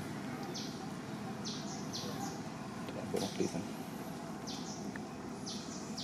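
Outdoor ambience with short, high chirps from a bird, mostly in pairs and coming every second or so, over a steady background hiss.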